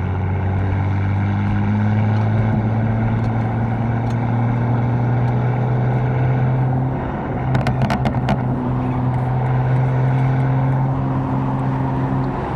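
Catless BMW M4 twin-turbo inline-six running under light load on the road, a steady engine drone that rises slowly in pitch. A quick run of sharp cracks comes about seven and a half seconds in.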